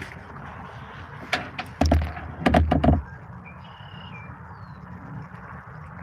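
A run of hollow knocks and heavier thumps on a kayak hull, bunched together between about one and three seconds in, over a steady low background rumble.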